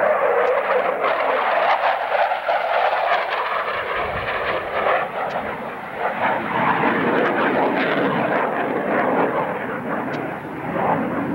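Jet noise from a CF-18A Hornet's twin turbofans as the fighter makes a high-speed, knife-edge flypast. It is a loud, steady rush that swells and dips and begins to fade near the end.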